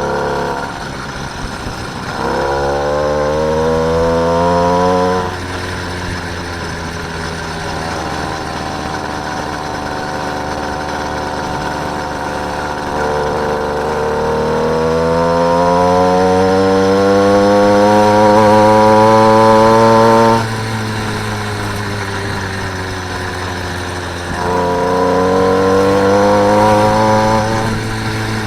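Small engine of a motorised bicycle under way, revving up three times: each time its pitch climbs and then drops off suddenly as the throttle is closed, the engine running low between. The longest climb is in the middle.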